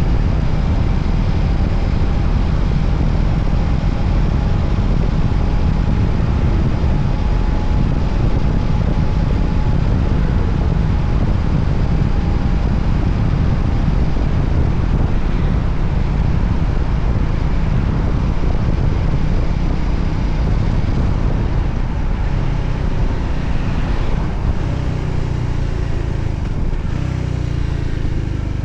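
Voge 300ACX motorcycle on the move: heavy wind rush on the microphone over the steady running of its single-cylinder engine. Near the end the wind eases a little and the engine note comes through more plainly.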